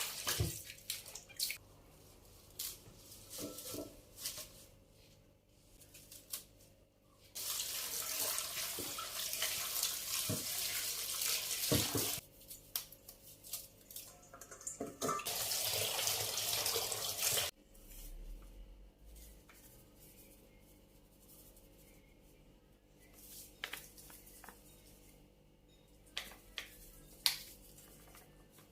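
Kitchen tap water running into a sink twice: once for about five seconds, then again for about two and a half seconds, each time cutting off suddenly. Light clicks and knocks of items being handled come before, between and after.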